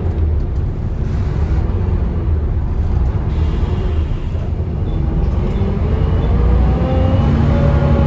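Volvo B7TL double-decker bus running, a deep steady engine note, with a whine that rises in pitch through the second half as the bus picks up speed.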